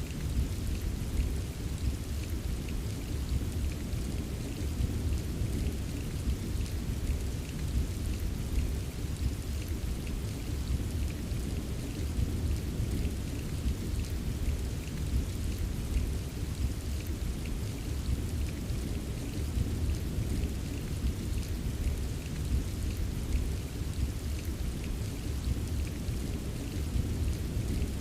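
Steady rain with a patter of many small drop ticks over a continuous low rumble of distant thunder. The rumble holds even, with no sharp crack.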